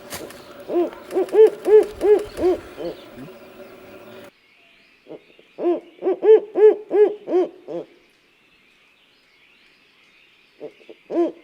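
A bird calling in series of about eight short pitched notes, each rising and falling, about four a second. Two full series are separated by a pause, and a third begins near the end.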